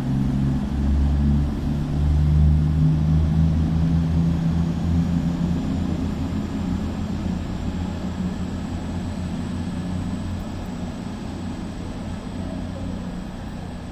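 Two coupled Class 221 Super Voyager diesel-electric trains pulling out under power, their underfloor diesel engines running with a steady low drone that fades gradually as they draw away.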